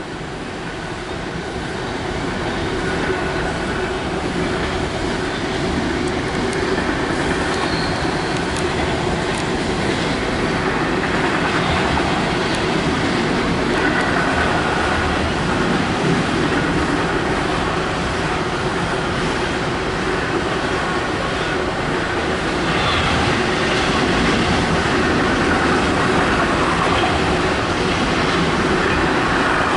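Freight train of empty intermodal flatcars rolling past at speed: a steady, continuous rumble of steel wheels on rail.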